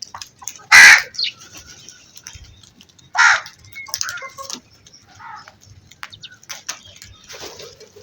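Crows cawing: two loud harsh caws about two and a half seconds apart, the first the loudest, followed by a few fainter caws.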